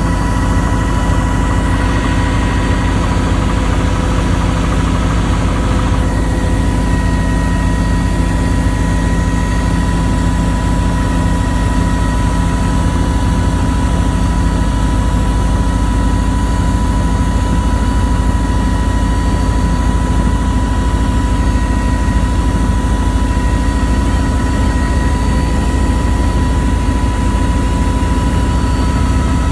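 Helicopter in flight, heard from inside the cabin: a steady, loud drone of rotor and turbine engine with a constant high whine running over it.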